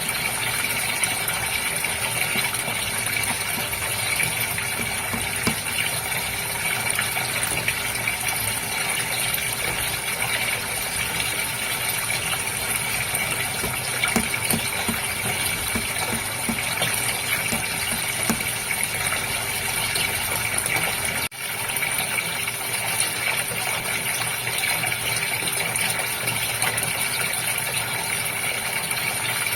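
Water gushing and splashing steadily, as in a goldfish tank with running water, over a faint steady hum. The sound dips for an instant about 21 seconds in.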